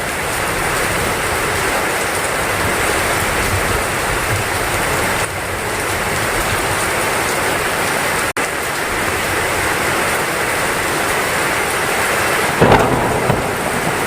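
Heavy rain falling steadily, with a rumble of thunder near the end. The sound cuts out for an instant about eight seconds in.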